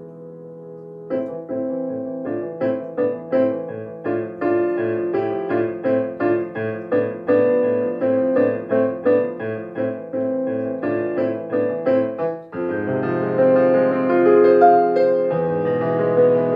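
Solo piano playing a minor-key piece. It opens on a held chord, then from about a second in plays a fast run of evenly repeated notes over a pulsing bass. Near the end it moves into fuller, louder held chords.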